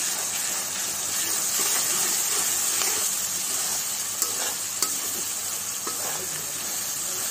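Onion, tomato and garlic-paste masala sizzling steadily in hot oil and ghee in a metal kadai while a metal spatula stirs and scrapes it, with a few light clicks of the spatula on the pan. This is the masala being fried down before the chicken goes in.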